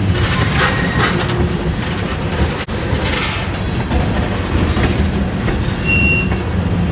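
Freight train cars rolling past, a steady rumble with clattering wheels over the rail joints. A brief high squeal from the wheels comes near the end.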